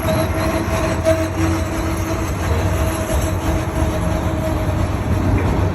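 Freight train of autorack cars rolling past, with a continuous rumble of wheels and cars and a steady whine that fades out about halfway through.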